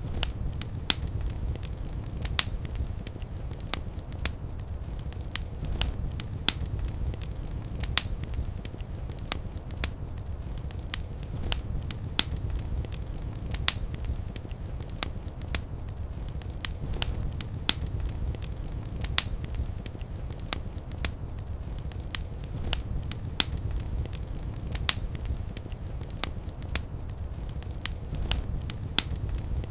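Fireplace fire burning with a steady low rumble and irregular sharp crackles and pops, several a second.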